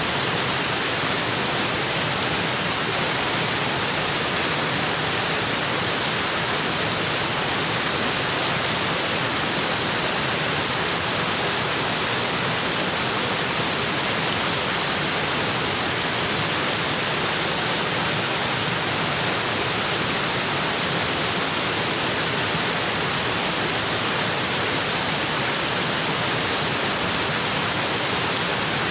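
Waterfall: water falling onto rocks in a steady, unbroken rush, with most of its energy in the upper-middle range.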